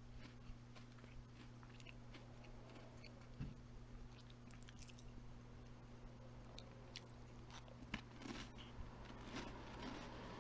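Faint crunchy chewing and biting, close to the microphone: scattered small crunches and clicks over a steady low hum.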